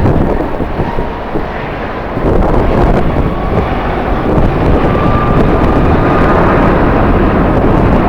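Jet airliner engines running loud and steady, mixed with strong wind buffeting the microphone; the engine noise swells about two seconds in and holds, with a faint thin whine above it.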